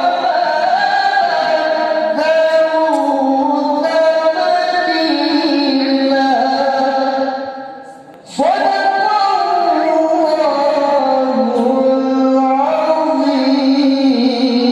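A single voice reciting the Quran in melodic tilawah style, holding long ornamented notes that wind up and down in pitch. A little past halfway the phrase trails off into a short breath pause, and a new phrase starts sharply.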